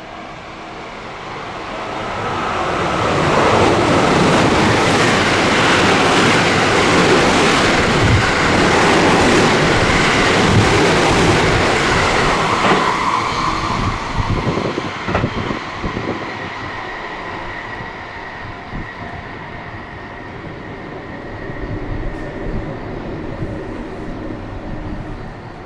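A train passing through a station at speed without stopping: the rail and wheel noise builds over about two seconds, stays loud for about eight, then fades away with some uneven clatter.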